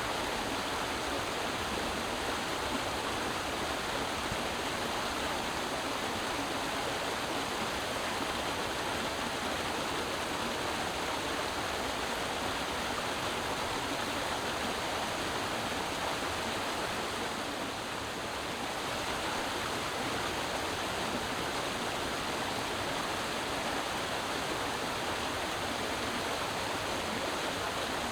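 Creek water running and babbling over rocks, a steady, even rush with a slight brief lull about two-thirds of the way through.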